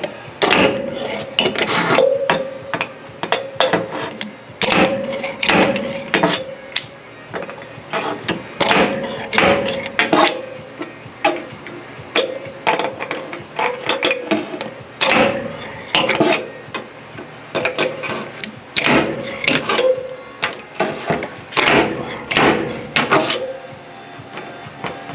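Hammer blows on the sheet-metal body panel of a Mazda RX-7, struck irregularly in quick runs, each with a short metallic ring, as dents are knocked out.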